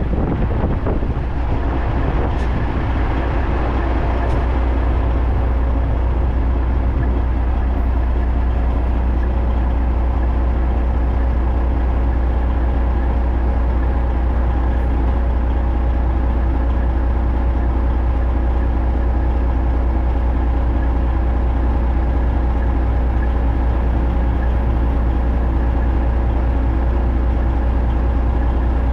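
Heavy truck engine running at a steady speed: a constant deep drone with steady overtones above it.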